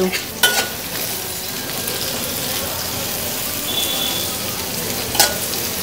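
Carrot sticks sizzling steadily in butter in an aluminium kadai over high heat. A metal spatula stirs them, clicking against the pan twice, about half a second in and near the end.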